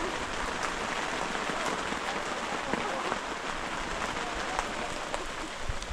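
Steady rain falling, with many scattered drops ticking as they hit.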